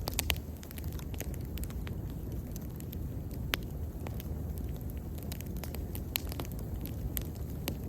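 Wood bonfire burning: a steady low rumble under irregular sharp crackles and pops, with a few louder snaps about three and a half, six and seven and a half seconds in.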